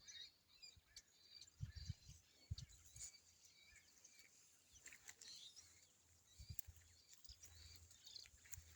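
Faint outdoor ambience with scattered small bird chirps and a few soft low bumps.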